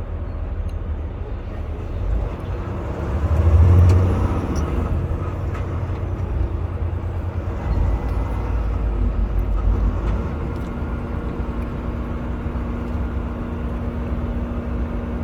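Semi truck cab interior: steady low rumble of the engine and road noise while driving in traffic. It swells louder for a moment about four seconds in, and a steady hum joins about two-thirds of the way through.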